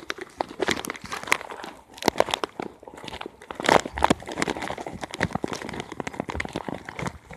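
Doritos chip bag crinkling, with irregular sharp crackles and crunches.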